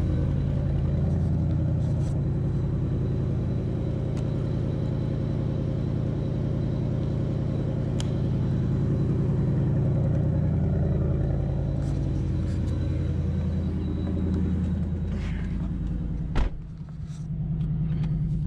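Ford Mustang GT's Roush-supercharged 5.0 Coyote V8 idling steadily through its stock exhaust. A single sharp knock comes near the end, and the engine sound is briefly quieter after it.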